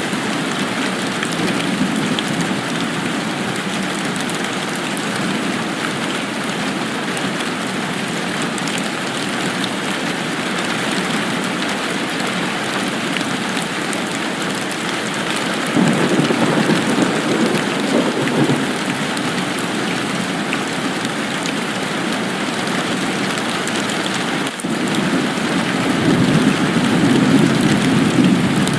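Steady, even rain hiss. Twice, about halfway through and again near the end, a low rumble swells up under the rain for a couple of seconds.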